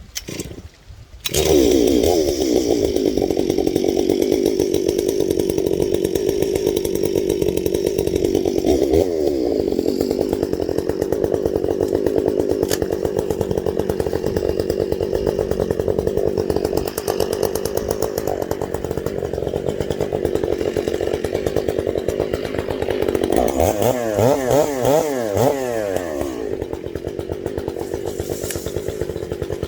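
Chainsaw starting about a second in and running steadily at high speed. Near the end it is revved up and down several times in quick succession, then runs on.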